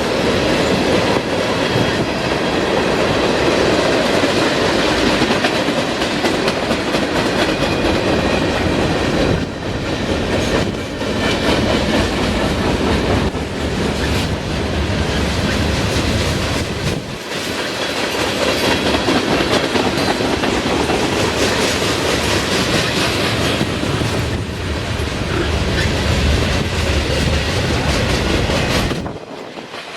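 Norfolk Southern freight train rolling steadily past close by, its car wheels clacking over the rail joints, with a few brief lulls and a sudden drop in level near the end.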